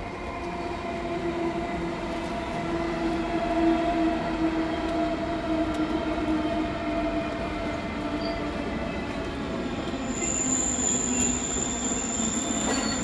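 SBB electric passenger train moving through the station, its drive whine a set of steady tones slowly falling in pitch and growing louder. A high, steady squeal joins about ten seconds in.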